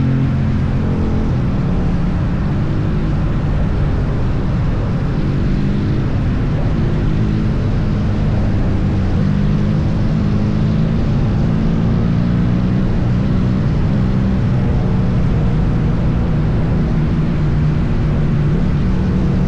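Triumph Bonneville T100's parallel-twin engine running steadily at highway cruising speed, its note drifting slightly up and down, over a heavy low rumble of wind and road noise on the microphone.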